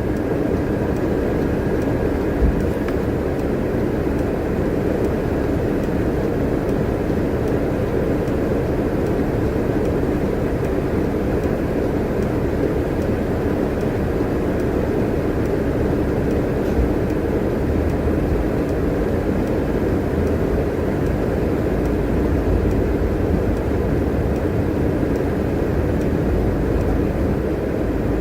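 Transit bus on the move, its engine and road noise a steady drone inside the cabin, with a few low bumps from the road.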